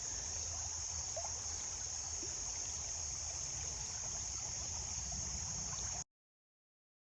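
Steady high-pitched chorus of insects such as crickets, over a low rumble. It cuts off abruptly to silence near the end.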